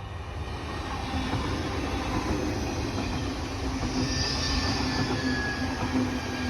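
A passenger train running through the station, growing louder, with a low hum underneath; about four seconds in, a thin high squeal from the wheels or brakes sets in and holds.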